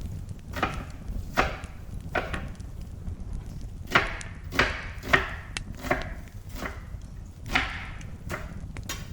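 A run of about a dozen sharp knocks or chopping strokes, unevenly spaced, over a low steady background.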